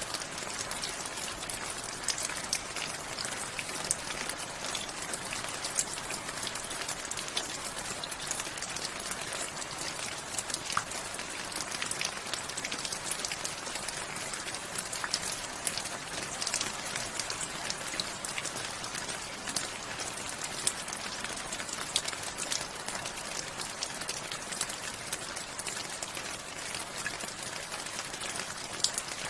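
Steady rain falling, with many individual drops striking close by as sharp, irregular ticks over an even hiss.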